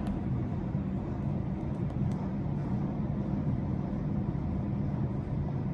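Garbage truck's diesel engine running with a steady low rumble.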